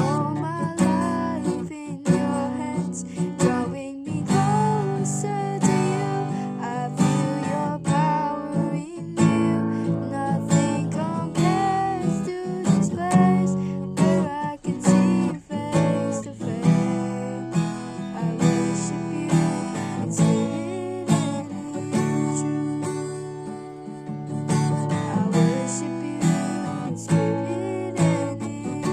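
Acoustic guitar strummed in steady chords, playing a slow song.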